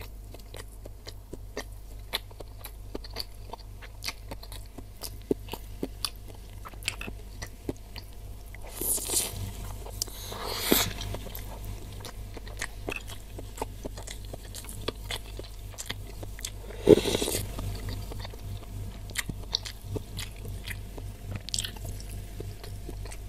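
Close-miked chewing of a tendon beef meatball (bakso urat): a steady run of wet mouth clicks and chews, with a few louder swells about nine to eleven seconds in and a sharper louder sound near seventeen seconds.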